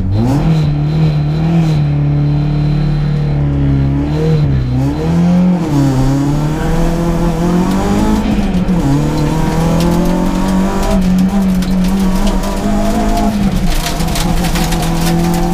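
Peugeot 106 S16 rally car's 16-valve four-cylinder engine, heard from inside the stripped cabin, accelerating hard through the gears, its pitch dropping back briefly at each upshift. A loud hissing crackle joins in near the end.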